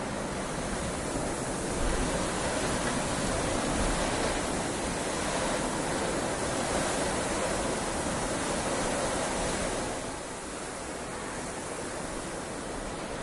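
Heavy rain falling steadily, swelling about two seconds in and easing a little near the end.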